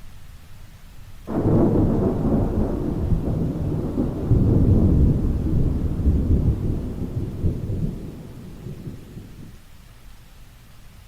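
A clap of thunder breaks suddenly about a second in and rolls on in a long low rumble for some seven seconds before fading, over steady rain.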